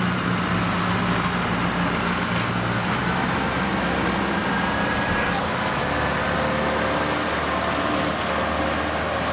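Farm machine engine running steadily at a constant speed, without revving.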